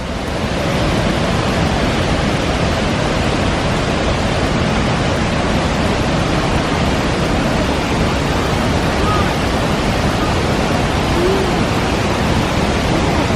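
River water rushing in a loud, steady stream. This is the river that feeds Athirappilly, flowing past the Thumboormuzhi dam.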